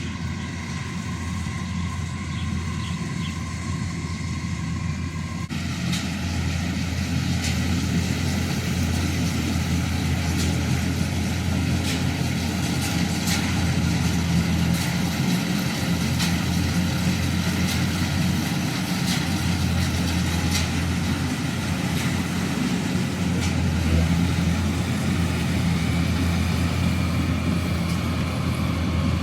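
Combine harvester running steadily, a low engine drone with mechanical noise and scattered sharp clicks. The sound changes abruptly about five seconds in and grows a little louder after that.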